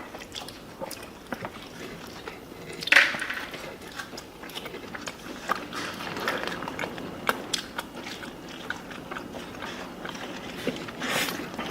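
Close-up chewing and biting of food, with many small wet mouth clicks. A louder bite comes about three seconds in, and another near the end.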